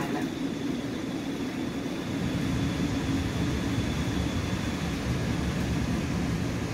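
Inside an EXO commuter train coach on the move: a steady low rumble of wheels running on the track. A faint, steady high whine sits over it for the first five seconds or so.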